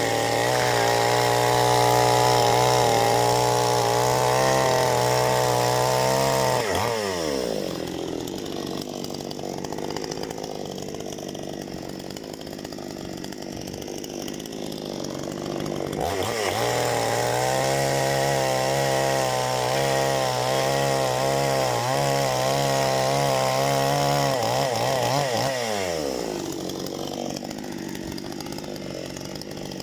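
Parma BP-058 two-stroke chainsaw held at full throttle for about six seconds while cutting firewood, then dropping back to idle. About halfway through it revs up again for about nine seconds of cutting, then falls back to idle near the end.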